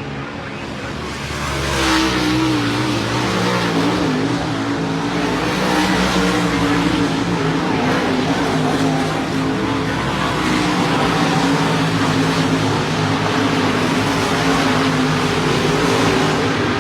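A pack of dirt modified race cars running at speed around a dirt oval, several V8 engines at high revs overlapping, getting louder about two seconds in as the cars come past.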